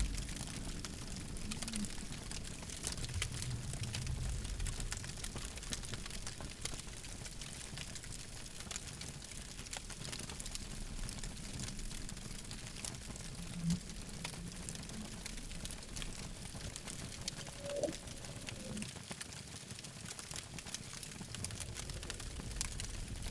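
Campfire crackling: scattered sharp cracks and pops over a steady hiss, with a few brief low whistling glides.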